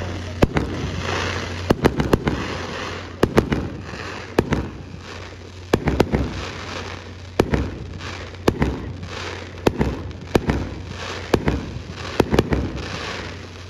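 Aerial firework shells bursting in quick succession: a dozen or more sharp bangs, often in close pairs, about one every second or so.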